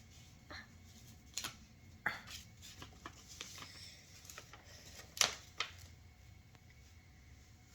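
Paper and tape being handled: scattered light taps, clicks and rustles, with one sharper tap about five seconds in.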